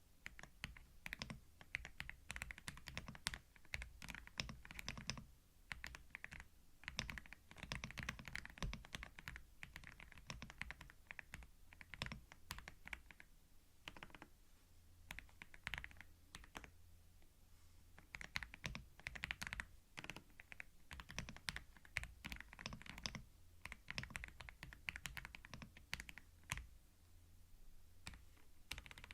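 Typing on a computer keyboard, picked up by a binaural microphone: runs of quick key clicks in bursts of a second or two, with short pauses between them.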